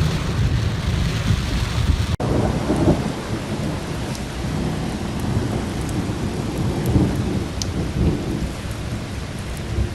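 Heavy rain pouring down with a low rumble of thunder under it, broken by a sudden brief dropout about two seconds in where the sound changes to a slightly different rain recording.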